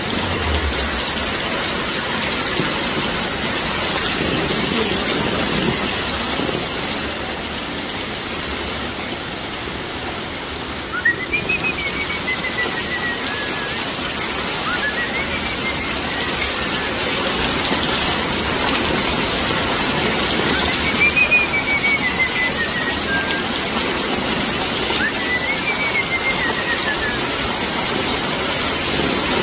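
Heavy rain pouring steadily onto a flooded street and onto the stall awnings. From about a third of the way in, a faint high whistle-like call rises and then falls, repeating every few seconds.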